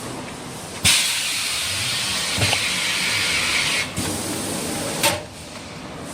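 Bottle-bundle PE film cutting and shrink-wrapping machine at work: a sudden loud hiss starts about a second in and lasts about three seconds, ending with a click, followed by a softer hiss and a second click over a steady machine background.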